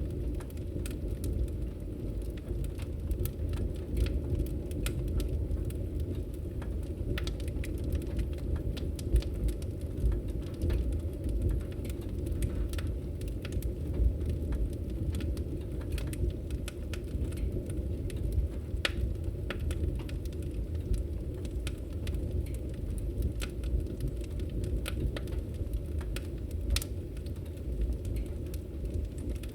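Wood fire crackling in a fireplace: irregular sharp pops and ticks over a steady low rumble of the flames.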